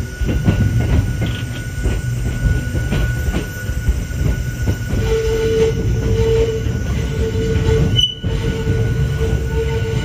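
Hakone Tozan Railway Moha 1 electric railcar running with a low rumble and wheel clicks on the rails. From about halfway, the wheels squeal in a steady high tone that comes and goes, as they grind through a tight curve on the mountain line.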